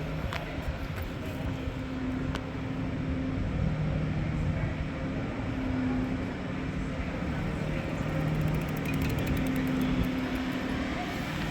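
Street traffic: vehicle engines running steadily, a low hum whose pitch shifts slightly now and then.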